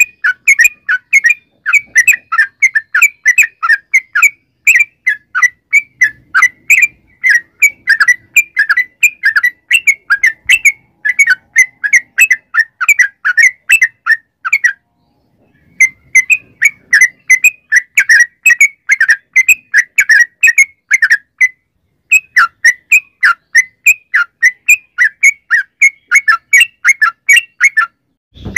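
Yellow-vented bulbul (trucukan) singing a long, rapid run of short chattering notes, about three to four a second, with two brief breaks. This is the long "ropel" song used as a lure to set other trucukan singing.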